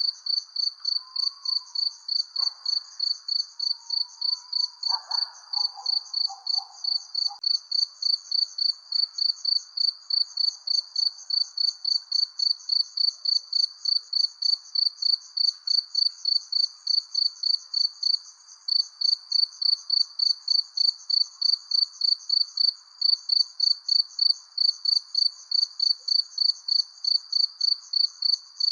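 Cricket chirping in a steady, even rhythm, about three chirps a second, with a brief break about 18 seconds in. Beneath it there is a faint lower haze of night sound, with a few fainter calls in the first several seconds.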